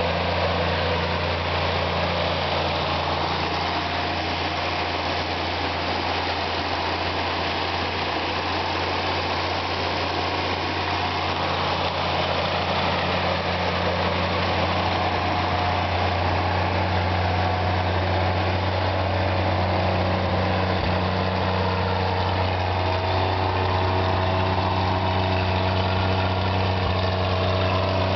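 WWII GMC CCKW army truck's straight-six gasoline engine idling steadily, a constant low hum.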